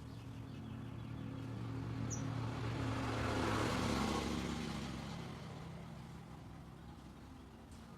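A road vehicle passing by, its engine and road noise swelling to a peak about halfway through and then fading away.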